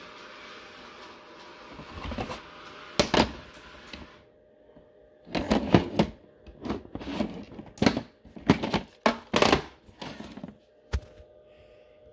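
A faint steady hum cuts out about four seconds in, followed by a quick run of sharp clicks and clunks of hard plastic and metal being handled, with a few knocks before the hum stops and a last single click near the end.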